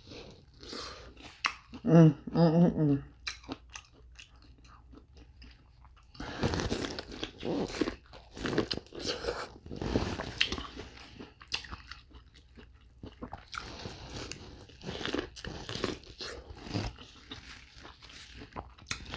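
Close-miked biting and chewing of corn on the cob, with kernels crunching in a run of wet clicks and crackles. About two seconds in there is a short hummed voice sound.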